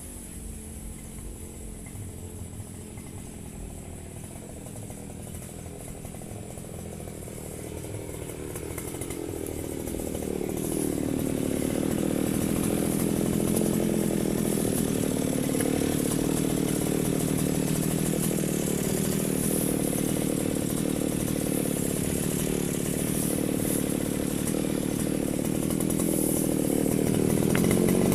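Firman FGB 528 two-stroke brush cutter engine running slowly at first, then speeding up about a third of the way in and running steadily at high revs, as when cutting grass, with a further slight rise near the end.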